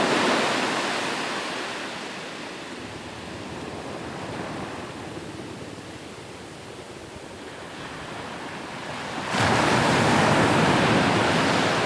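Sea waves on a shore: a wash of surf fades away over the first couple of seconds, leaving a quieter hiss. Then a new wave breaks suddenly about nine seconds in and stays loud.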